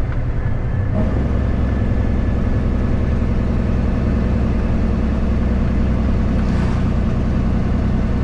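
Kenworth W900 truck's diesel engine running steadily, its note shifting about a second in.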